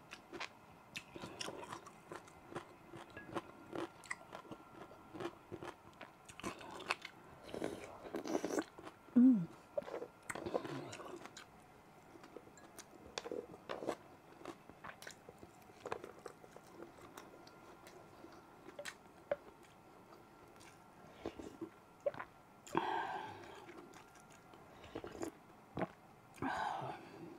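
Close-miked eating sounds of a beef bulalo meal with rice: chewing and biting with many short mouth clicks and smacks, and a couple of louder breathy bursts near the end.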